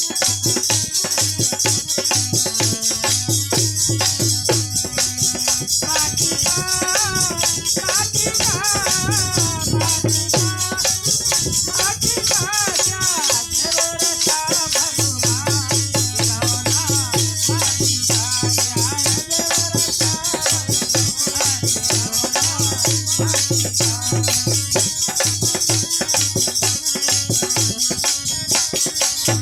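Devotional bhajan music from a group: fast, steady shaken-rattle percussion throughout, a low held note that stops and starts, and a wavering singing voice that is strongest from about six to fourteen seconds in.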